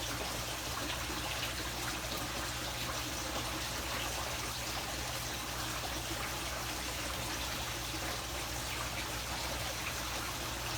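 Steady trickle of running water, even and unbroken.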